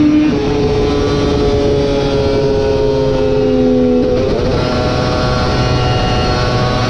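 Superbike racing motorcycle engine running hard. Its pitch sags slowly for about four seconds, changes abruptly, then holds steady at a higher pitch.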